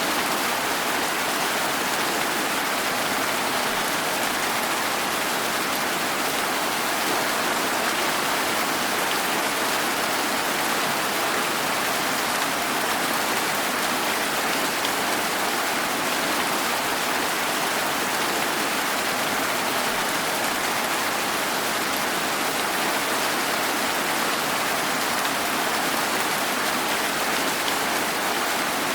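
Steady rain falling, an even hiss that holds constant throughout, with no thunder or separate drips standing out.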